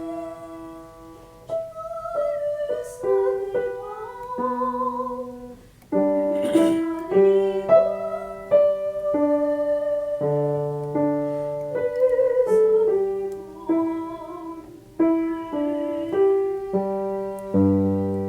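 A voice singing a song with vibrato over piano accompaniment, the piano notes and chords changing every second or so.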